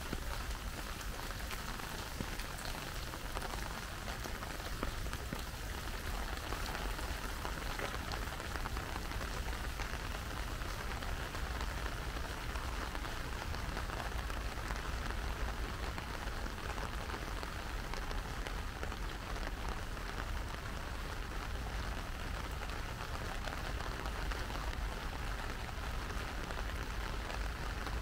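Steady rain falling, a constant patter of drops with a low rumble underneath.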